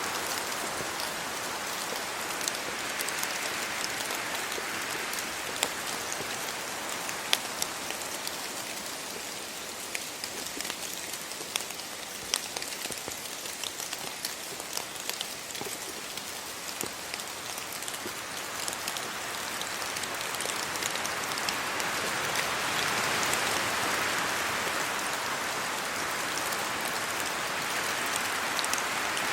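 Steady rain falling, with single drops landing close by in sharp ticks. The hiss swells louder a little after two-thirds of the way through.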